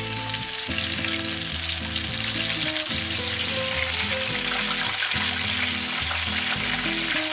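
Flour-dusted rock snapper egg sacs sizzling as they deep-fry in hot oil, a dense steady crackling hiss. Background music with low notes changing about every half second plays under it.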